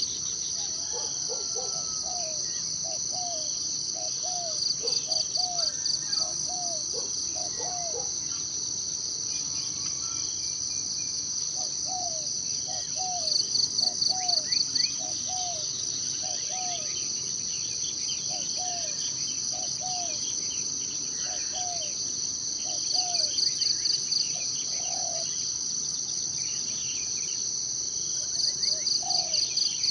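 Forest insects keep up a steady high drone, and a pulsing trill swells louder four times. Under it, a bird repeats a low hooked note about two times a second in several runs, with faint higher chirps.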